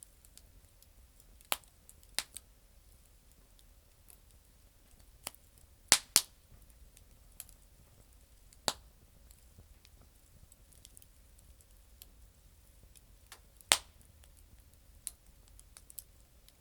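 Campfire of damp firewood crackling: sparse, sharp, irregular pops, about ten in all, the loudest a close pair about six seconds in and a single pop near fourteen seconds.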